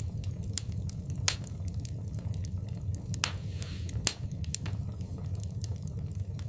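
Wood fire in a fireplace crackling: a steady low rumble of flames with frequent small ticks and a few sharp pops, the loudest about a second in and around three and four seconds in.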